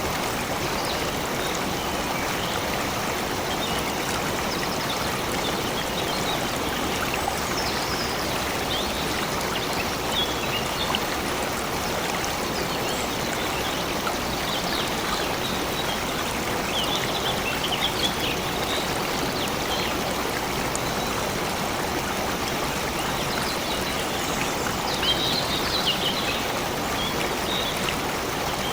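A stream of water flowing and splashing steadily, with short high bird chirps now and then, the clearest near the end.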